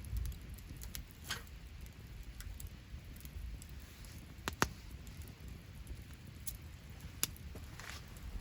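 Wood campfire crackling, with scattered sharp pops, the loudest a quick double pop about four and a half seconds in and another just past seven seconds, over a low steady rumble.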